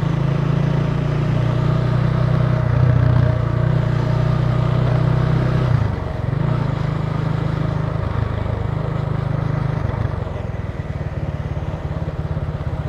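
Italika TC300 motorcycle engine running while riding, with a steady low drone. It dips briefly about six seconds in, as at a gear change, then runs a little quieter for the last few seconds as the throttle eases off.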